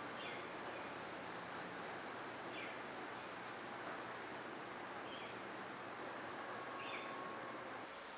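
Rainforest ambience: a steady high insect hum, with a bird repeating a short downward-slurred call about every two seconds.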